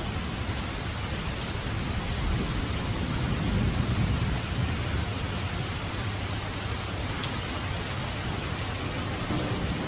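Steady rain falling, an even hiss, with a low rumble of thunder underneath that swells about three to four seconds in and then eases.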